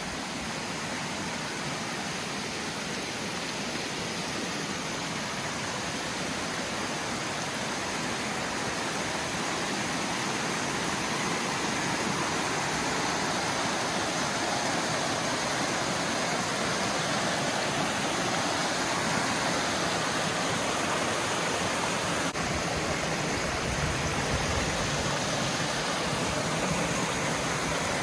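Rushing water of a cascading mountain waterfall, a steady hiss that gets a little louder about twelve seconds in.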